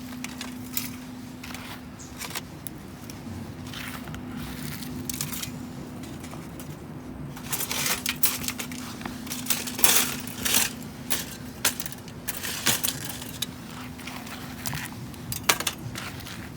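Small metal pieces clinking and rattling as they are handled, in irregular bursts that are busiest in the second half, over a steady low hum.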